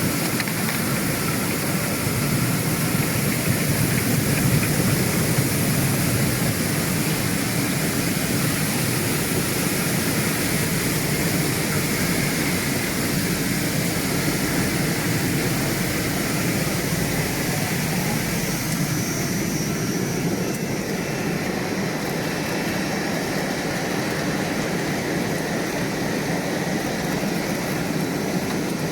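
Bubble-type fruit and vegetable washing machine running: a steady rushing noise of air bubbling through the water in its tank. The high hiss eases a little about two-thirds of the way through.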